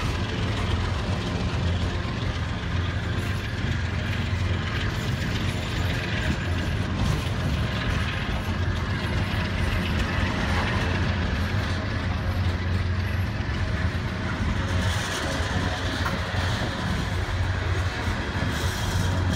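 Norfolk Southern freight train running past at trackside: a steady, loud rumble and rattle of the cars rolling on the rails.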